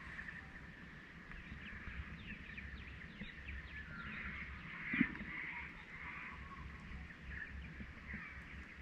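Many small birds chirping and calling together, with one short thump about five seconds in.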